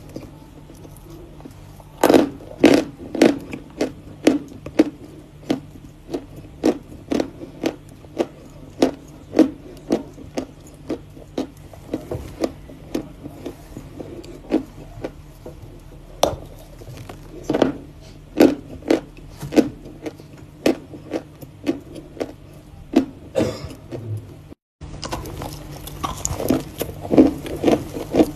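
Close-miked crunching as a person bites and chews pieces of natural edible chalk, a sharp crunch every half second to a second. The sound cuts out for a moment about 24 seconds in.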